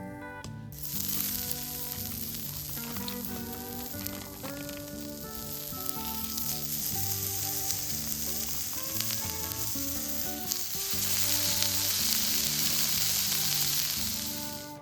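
Meat sizzling on a hot iron griddle. The sizzle starts suddenly about a second in and grows louder near the end, over soft background music.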